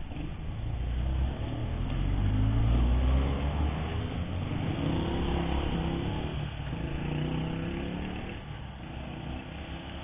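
Motorcycle engine running under way, rising in pitch twice as it accelerates, then easing off briefly about six and a half seconds in, over rumbling road and wind noise.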